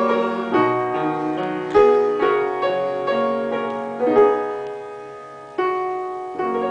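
Piano playing slow chords, each struck and left to ring and fade. There is a longer gap before the last two chords near the end.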